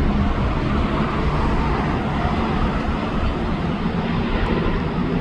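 Jet airliner engines, a steady loud rumble.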